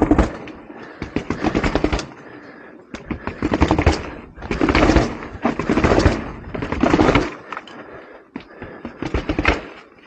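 A BMX bike clattering down a staircase: bursts of rapid hard knocks as the wheels strike step after step, repeated several times.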